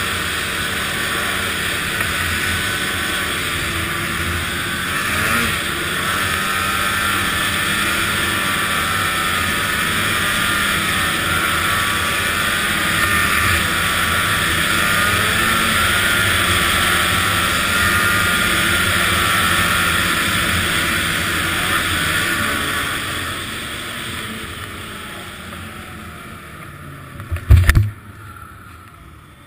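Arctic Cat ZR 800 snowmobile's two-stroke engine running at speed over wind noise, its pitch wavering up and down. The engine dies down over several seconds near the end, and then comes a single sharp thump.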